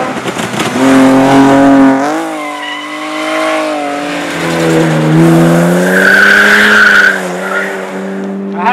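Rally car engine running hard at high revs, its pitch dropping about two seconds in as at a gear change, then holding steady; tyres squeal for about a second near the end.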